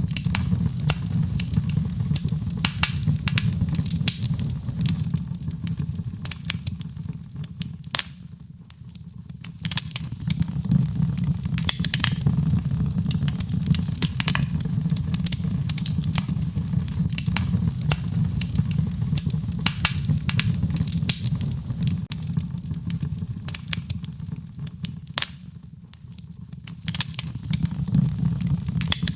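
Wood fire crackling and popping, with many sharp snaps over a steady low roar. The sound fades down briefly twice, about a third of the way in and again near the end.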